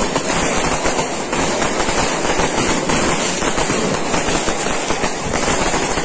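Firecrackers going off in a dense, rapid, unbroken crackle of bangs, like a long string of firecrackers burning through.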